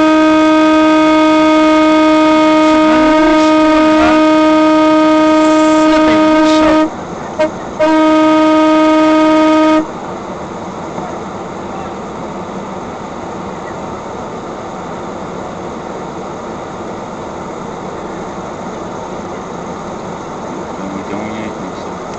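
Car horn held down in a long, loud, steady blast. About seven seconds in it breaks off, gives one short toot, then sounds for two seconds more and stops sharply. After it, steady road and traffic noise.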